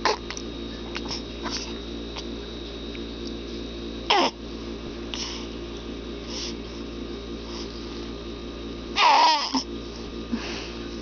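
Young infant grunting and making short vocal noises: a brief one at the start, another about four seconds in, and a longer, louder one about nine seconds in, with fainter ones between.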